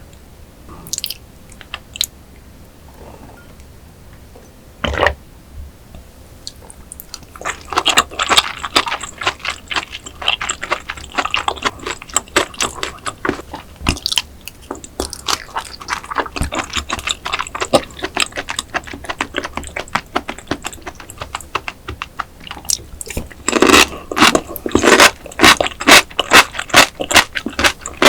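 Close-miked chewing of raw oyster sashimi salad. A few isolated clicks come first, then rapid, dense, wet chewing starts about seven seconds in and gets louder for the last few seconds.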